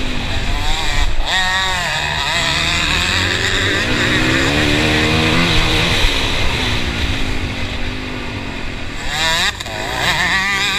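Motocross bike engine, heard from on board, revving hard and falling back again and again as the rider works the throttle and gears round the track, with a brief drop in throttle about nine and a half seconds in.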